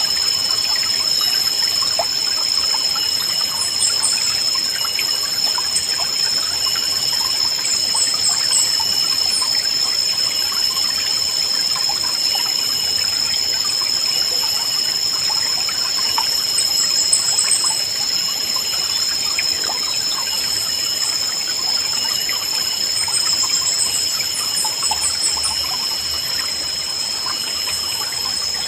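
River water trickling and babbling steadily, with short high bird chirps every few seconds and a steady high-pitched ringing tone throughout.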